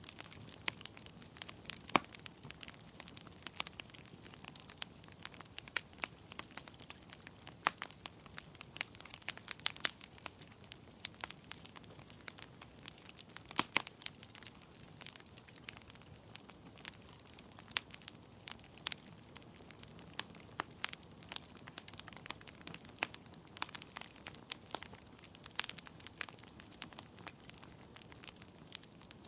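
Wood fire in a fireplace crackling: irregular sharp pops and snaps from the burning logs over a soft steady hiss of flame, with a few louder pops.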